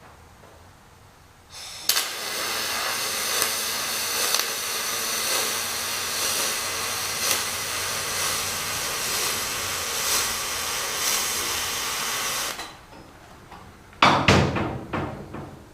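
Welder arc hissing and crackling steadily for about ten seconds as a weld is run on the boat's metal T-bar ribs, then cutting off. A couple of seconds later come a few sharp, ringing metal clanks.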